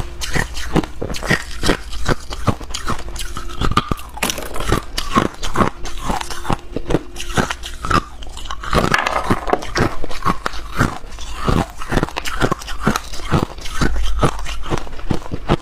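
A person biting and chewing ice, with sharp, rapid crunches coming about three a second.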